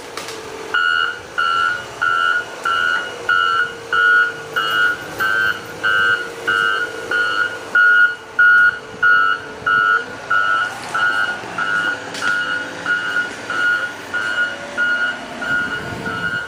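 Backup alarm on a heavy machine beeping steadily, about one and a half beeps a second, starting about a second in, while its diesel engine runs underneath.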